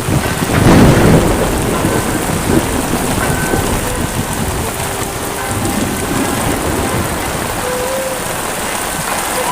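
Heavy rain falling steadily, with a loud low rumble about a second in that then eases off.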